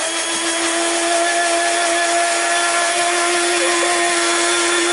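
Electric blender motor running steadily at speed, blending a liquid smoothie: a loud, even whine with a held tone.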